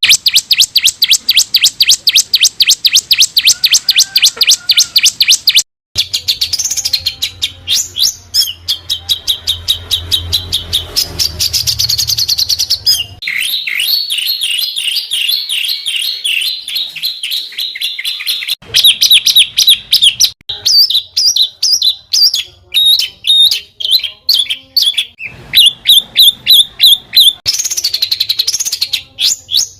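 Songbird song: loud, rapid runs of repeated high chips and trills. The phrase changes every few seconds, with a brief break about six seconds in.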